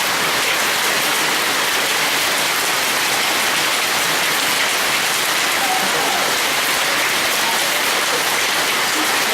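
Hailstorm: hailstones and heavy rain falling together in a dense, steady patter of countless small impacts.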